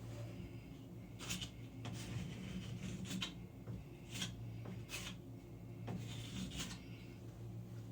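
A plastic key card scraping spackle into drywall gaps, in short strokes about a second apart, over a steady low hum.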